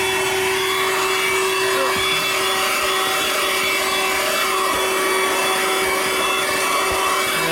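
Audew 12V handheld car vacuum running continuously with a steady whine, its airflow noise shifting as the nozzle moves; it cannot be switched off because its switch has stopped working.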